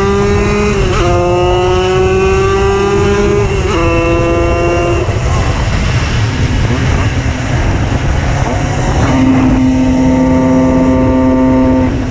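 Tuned 90cc reed-valve two-stroke engine of a Simson S51 moped being ridden hard. Its note rises, dips at a gear change about a second in, rises again and shifts once more near four seconds. It then sinks into rough noise for several seconds before holding a steady pitch near the end, with a constant low rumble underneath.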